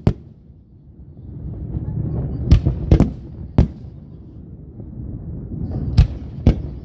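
Fireworks going off: about six sharp bangs, one at the start, a cluster of three a little past halfway and two more near the end, with low rumbling in between.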